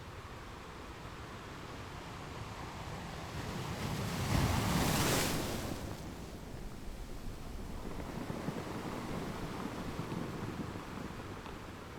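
Ocean waves breaking on a shore over a steady wash of surf. A wave crashes about four seconds in, the loudest moment, and fades, and a smaller surge swells and ebbs later on.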